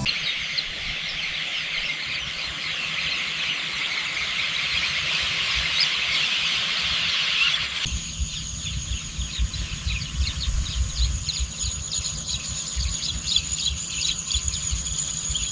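Countryside ambience: a dense, high-pitched chorus of chirping birds and insects, with wind rumbling on the microphone. About halfway through the chorus changes abruptly to a steady high whine laced with rapid chirps.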